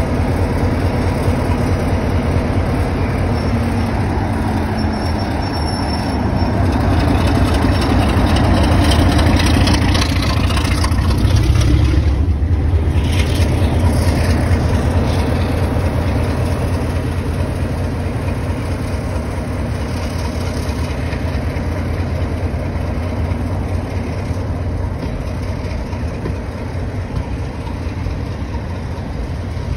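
Heritage train running with a continuous low rumble, swelling to its loudest midway and then slowly fading.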